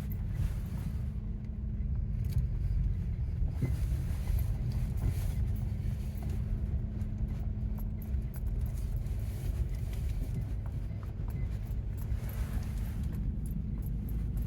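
Car being driven, a steady low rumble of engine and tyres with a constant low drone.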